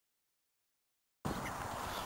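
Dead silence, then outdoor background noise cuts in abruptly a little over a second in: a steady low rumble and hiss with a faint short chirp.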